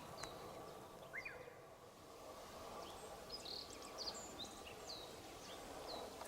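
Birds chirping faintly: a scatter of short high calls, many sliding down in pitch, over a steady low background hiss.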